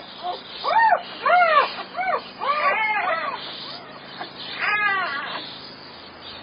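Newborn German Shepherd puppies whimpering and squeaking in a quick series of short cries, each rising and falling in pitch. The cries thin out after about five seconds.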